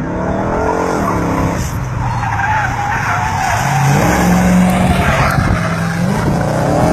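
A car driven hard: the engine revs up, drops back and climbs again while the tires squeal under hard cornering, the squeal strongest in the middle seconds.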